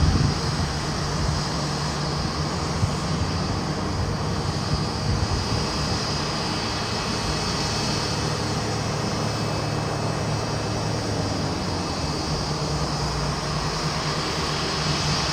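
Boeing 787-9 jet airliner on the ground with its engines running: a steady rush of jet noise over a constant low hum.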